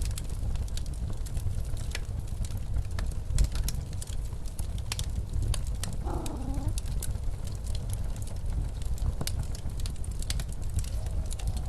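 Fireplace crackling, with sharp irregular pops and snaps, over the low steady rumble of snowstorm wind. About six seconds in, a brief wavering howl of the wind rises above the rumble.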